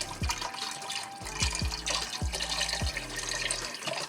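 Chicken broth being poured into a soup pot: a steady splashing pour. Under it, background music with a regular deep bass beat.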